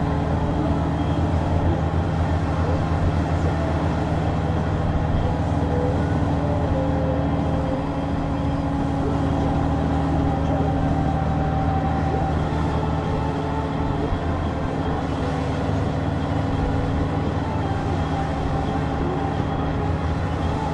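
Honda Gold Wing's flat-six engine running steadily under way, with tyre and wind noise mixed in.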